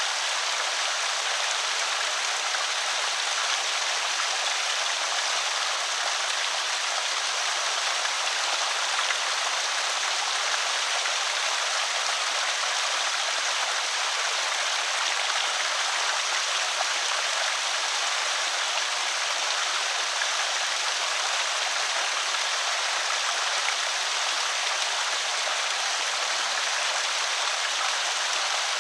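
Water pouring steadily over a small creek spillway: an even, unbroken rushing and splashing.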